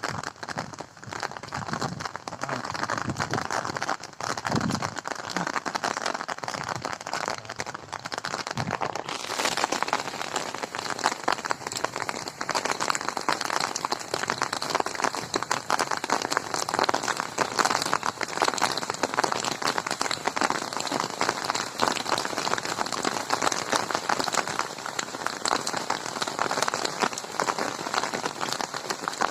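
Rain falling and pattering on surfaces, a dense, steady patter of drops. A few low thuds come in the first seconds, and about nine seconds in the sound turns brighter and hissier.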